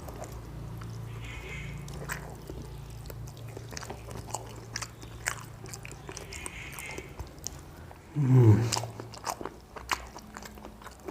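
Close chewing and biting of a rice-and-fish meal, with scattered small crunches and clicks over a low steady hum. A short pitched sound, rising then falling, comes about eight seconds in.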